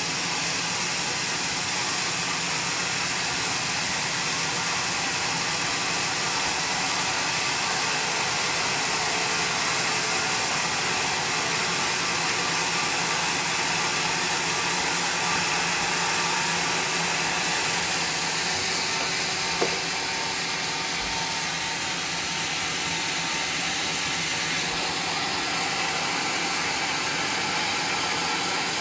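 Homemade sawmill running steadily as it saws a log, a constant dense mechanical noise. There is one brief click about two-thirds of the way through.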